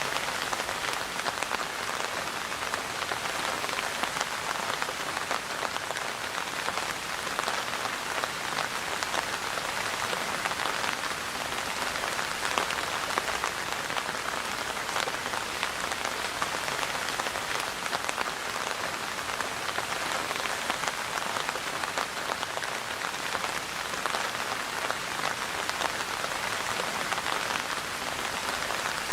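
Steady rain falling, a continuous even patter of many drops with no let-up.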